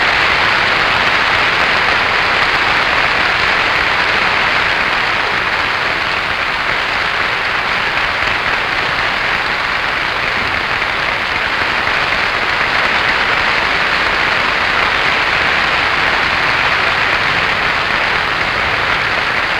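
Audience applauding steadily after an orchestral performance, easing off slightly toward the end.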